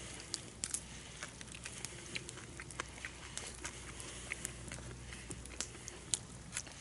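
Wood campfire crackling, with irregular sharp pops and snaps over a faint steady background.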